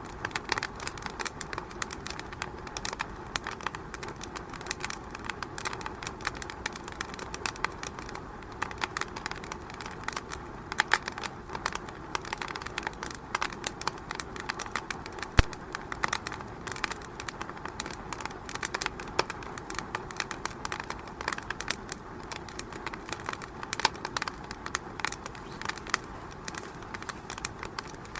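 Wood fire crackling in a fireplace: dense, irregular pops and snaps over a steady hiss, with one sharper pop about halfway through.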